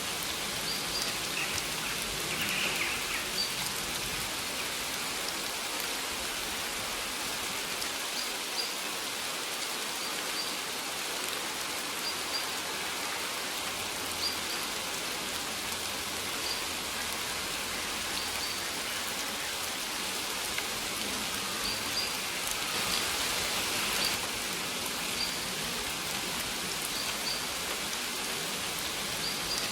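Steady rain falling, with a bird giving a short high chirp every second or two.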